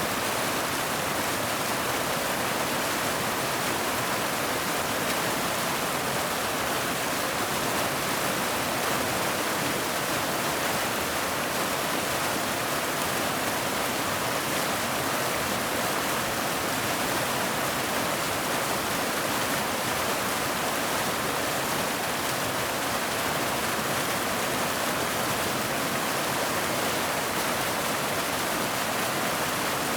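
Waterfall: a steady, unbroken rush of falling water, with no changes or separate sounds.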